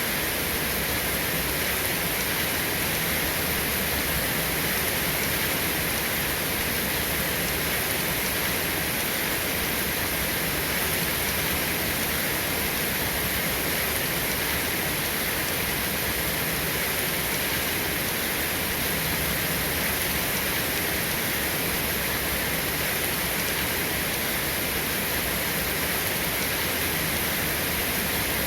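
Steady rain falling, an even, unbroken hiss with no thunderclaps or other sudden sounds.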